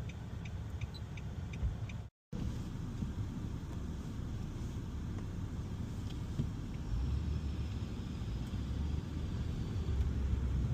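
Steady low rumble of a car being driven, heard from inside the cabin, growing louder for the last few seconds. The sound cuts out completely for a moment about two seconds in.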